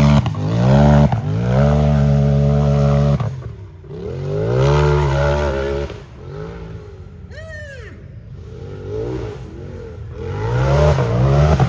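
Unlimited-class race UTV engine revving hard. It holds high revs for about three seconds, cuts off briefly, climbs again, then eases for a few seconds before rising once more near the end.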